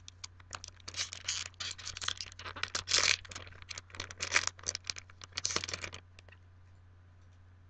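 Foil Yu-Gi-Oh! booster pack wrapper being torn open and crinkled, a dense run of irregular crackling and scratching that stops about six seconds in.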